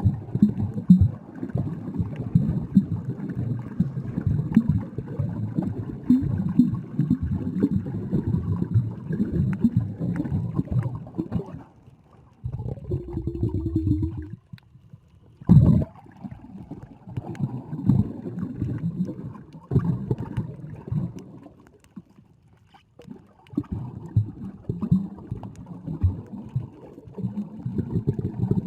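Muffled, uneven sloshing and gurgling of seawater against a camera filmed underwater, with a brief steady hum and a sharp knock about halfway through and short lulls between.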